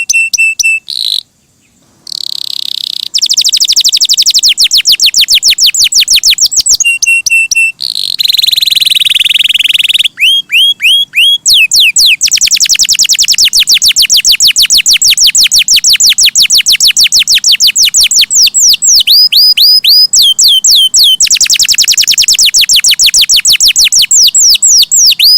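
Domestic canary singing loudly and continuously in long, rapid trills of repeated down-sweeping notes. It changes from one trill phrase to the next, with a brief pause about a second in.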